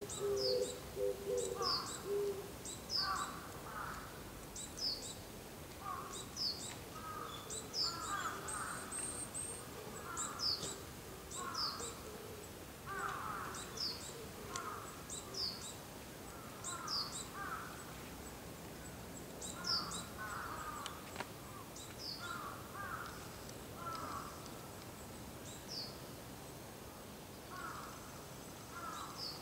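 Birds calling over and over: crows cawing repeatedly, mixed with many high, short calls that slide downward.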